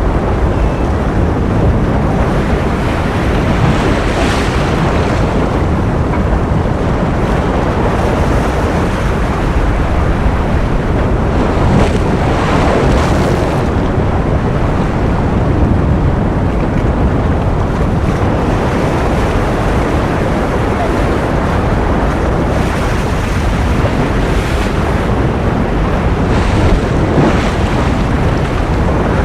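Ocean surf noise: a steady, dense low rush with a few brighter hissing swells of wash, the first about four seconds in, another around twelve to thirteen seconds, and more in the last few seconds.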